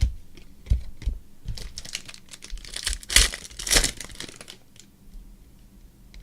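Trading cards and their plastic or foil packaging being handled on a table: a few soft knocks, then crinkling from about a second and a half in until past four seconds.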